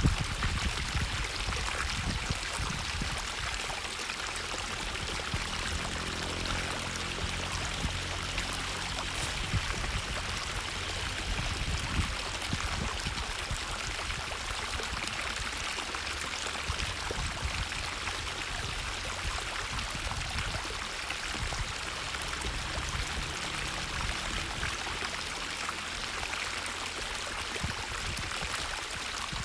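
A stream's water running steadily, a continuous rushing hiss, with a low rumble underneath during roughly the first half.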